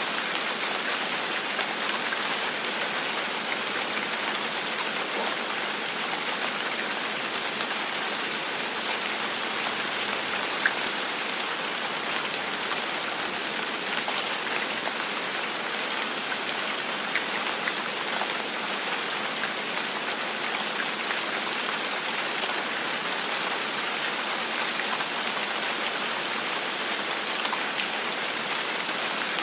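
Steady gentle rain: an even hiss of rainfall with scattered faint drop ticks.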